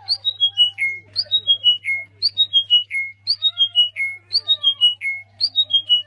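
A songbird singing the same quick phrase over and over, about once a second: a run of about six clear whistled notes stepping down from high to lower pitch. A steady low hum runs beneath.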